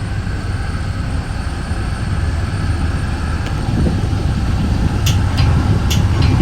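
Metra bi-level commuter train running on the rails, heard from inside the front car: a steady low rumble that grows a little louder, with several sharp clicks in the last second and a half.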